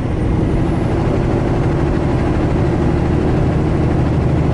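Big-rig truck's diesel engine running steadily at highway cruising speed, a constant low drone with road noise, heard from inside the cab.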